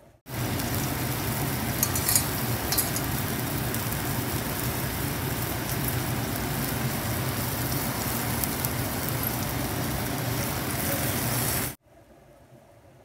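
Chanterelle mushrooms with onion and chilli sizzling and bubbling in a little liquid in a wok as they cook through, a steady sizzle that starts and stops abruptly, with a few louder crackles about two seconds in.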